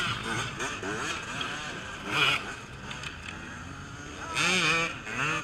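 Off-road race motorcycles revving, several engines overlapping and rising and falling in pitch. A louder burst comes about two seconds in and another near the end.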